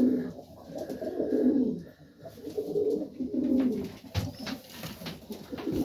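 Serbian Highflyer pigeons cooing repeatedly in a loft, low rolling coos one after another, with a few short sharp knocks near the end.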